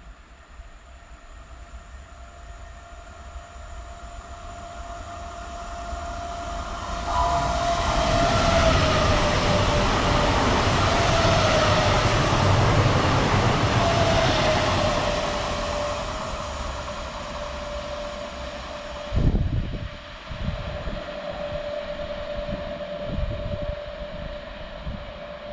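Pesa ED74 electric multiple units passing through the station. Their noise builds to a loud rush of wheels and air, with a high whine that slides down in pitch as they go by, then fades. A single sharp thump comes about three quarters of the way in.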